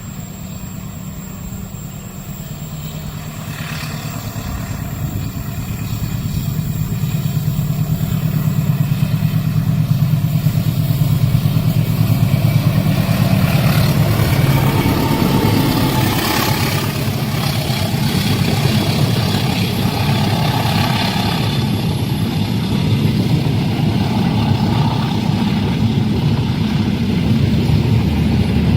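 Train approaching and passing: a low engine drone and rolling noise that grow louder over the first ten seconds or so, then hold loud and steady.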